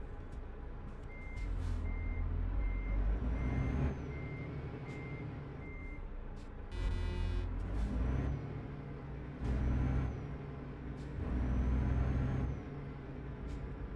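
Truck engine running, its low rumble rising and falling several times, while a high warning beep sounds about twice a second for several seconds. A short blare with many overtones follows about halfway through.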